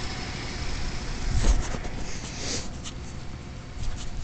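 1996 Ford F-150's 300 cubic-inch inline-six idling steadily while it warms up after a cold start.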